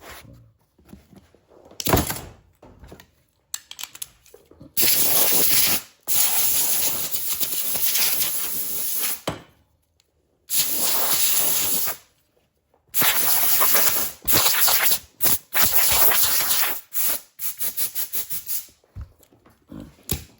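A grinder run in on-off bursts against the armrest's foam padding, shaping it down: a long run of several seconds, a few shorter runs, then a quick series of short blips near the end.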